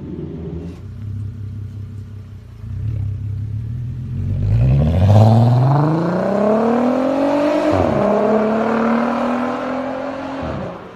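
Car engine rumbling low, then accelerating hard from about four seconds in, its pitch climbing steadily. There is a sharp dip at a gear change near eight seconds, then a higher steady note, and another drop just before the end.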